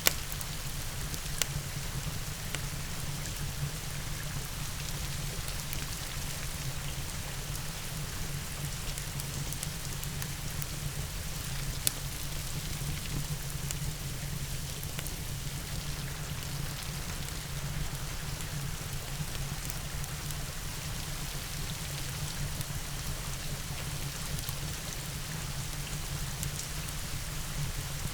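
Steady rain with a fireplace burning, as a continuous even hiss over a low rumble. A few sharp crackles from the fire come through: one right at the start, another about a second and a half in, and a louder one near the middle.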